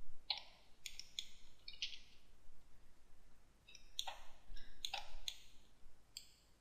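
Computer mouse clicking: about eight short clicks in irregular groups, the first few near the start and another group around four to five seconds in.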